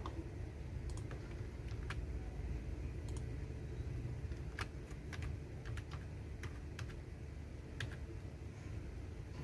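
Computer keyboard keys being typed on slowly and unevenly, single keystrokes and short clusters of clicks with gaps between them, over a low steady background rumble.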